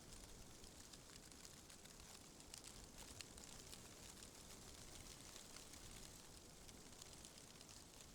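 Faint wind rustling through tree leaves: a steady soft hiss with scattered fine crackles.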